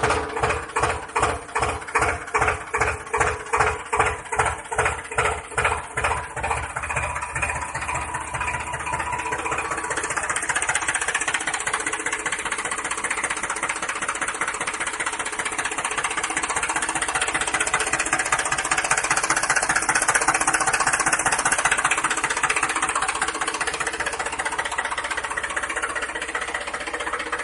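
Tractor engine chugging: slow, regular thumps about twice a second that quicken over the first several seconds and settle into steady running.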